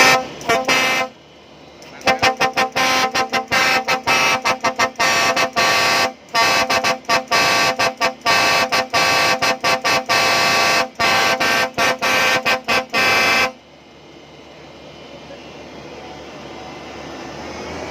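Multi-tone horn on a rice combine harvester honked in a quick rhythmic pattern of short toots and longer blasts for about eleven seconds, each note several pitches together. It stops suddenly, and a machine's engine noise then swells up gradually.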